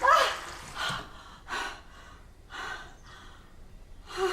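A person breathing heavily in four short, gasping breaths about a second apart.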